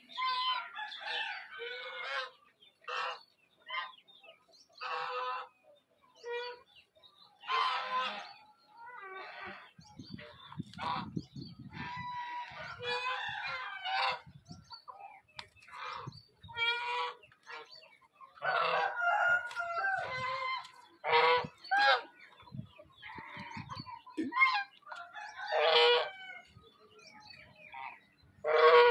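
Birds calling again and again, one call after another with short gaps, some overlapping; a low rumble joins in for about two seconds near the ten-second mark.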